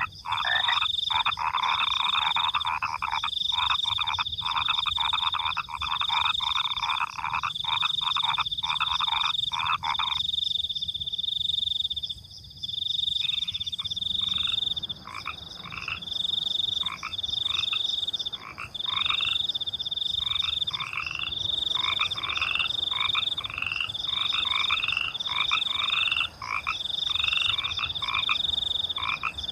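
A chorus of frogs croaking over the steady high trill of crickets. The frogs call densely for about ten seconds, fall silent for a few seconds, then take up again in short calls repeated about once a second, while the cricket trill pulses on without a break.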